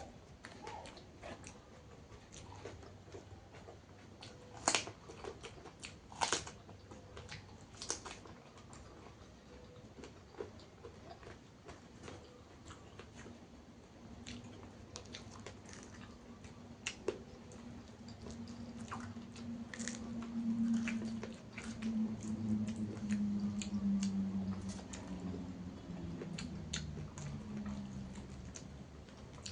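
Close-up eating sounds: crisp bites and wet, crunchy chewing of fried fish and raw vegetables, with sharp crunches at irregular moments. A low droning hum builds in the second half.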